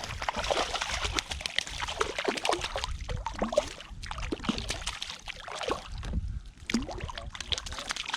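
Water splashing and sloshing at the side of a kayak, with many quick clicks and ticks, as a hooked fish is played and reeled in close.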